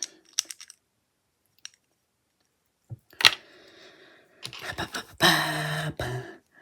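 Plastic Lego bricks clicking and clattering as pieces are handled: a few light clicks at the start, a sharp click about three seconds in, then a run of clicks. Near the end comes a louder sustained sound held at one steady pitch for about a second.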